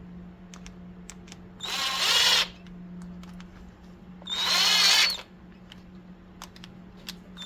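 Power driver running in two short bursts, each with a slightly rising motor whine, as it drives in the two carburetor screws one after the other.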